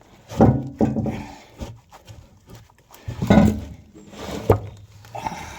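A man grunting and straining with effort as he takes the weight of a heavy fuel tank, two loud grunts about a second in and about three seconds in, with a single knock shortly after the second.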